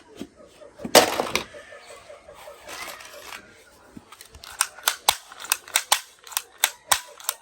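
Toy guns being fired and clicked. There is a loud burst of noise about a second in, then a run of sharp clicks, about two a second, from about four and a half seconds.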